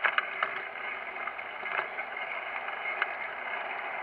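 Steady rushing noise of a bicycle being ridden, tyre and wind noise, with a few light clicks and rattles scattered through it.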